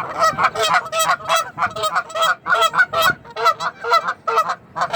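Waterfowl quacking loudly in a fast, steady run of harsh calls, about four a second.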